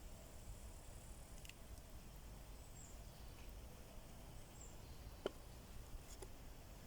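Wood campfire crackling faintly: a few scattered sharp pops, the clearest about five seconds in, over a low steady rumble, with faint high bird chirps.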